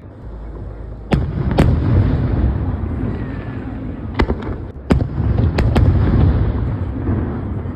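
1.3G display fireworks going off: about six sharp bangs in two clusters, over a continuous low rumble of booms.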